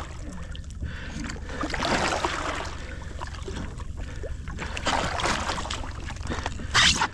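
Water splashing and sloshing at the side of a kayak as a large hooked fish is wrestled alongside, in irregular surges with one sharp, loud splash near the end. Wind rumbles low on the microphone throughout.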